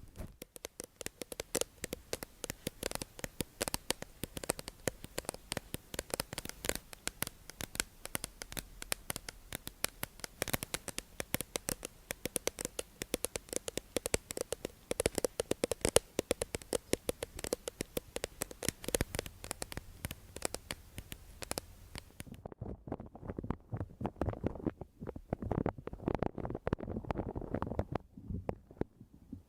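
An ASMR trigger sound close to the microphone: a rapid run of many crisp clicks and scratches each second. About 22 seconds in it turns muffled and dull, becoming low rubbing and soft thumps.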